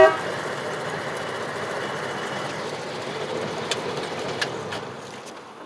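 1949 Hudson Super Six's flathead straight-six engine idling steadily, with a few light clicks; the sound drops away near the end.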